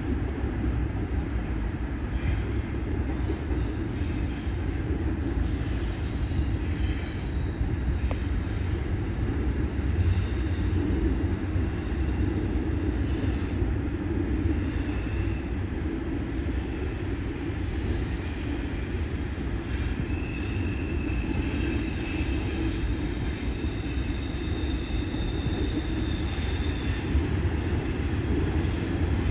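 Train rolling past: a steady, continuous rumble of railcars on the track, with faint high-pitched squeals now and then.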